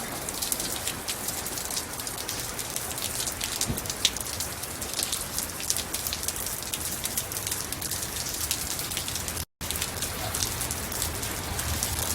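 Steady rain falling, with many separate drop hits heard against a constant hiss; the sound cuts out for a moment about nine and a half seconds in, then resumes.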